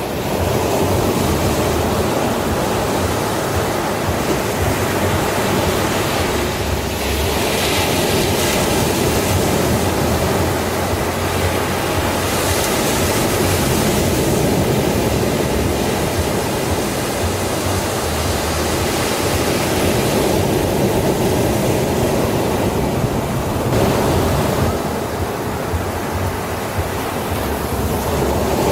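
Sea waves washing onto a beach: a continuous surf noise, with the hiss swelling as waves break about eight and again about thirteen seconds in.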